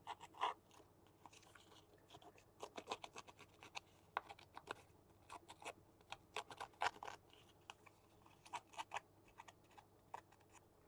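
Faint, irregular scratching and small clicks of paper and cardstock being handled and worked by hand.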